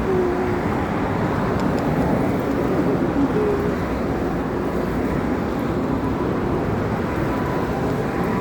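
Steady rush of wind and road noise while riding along a wet road in traffic, with faint wavering tones in the background.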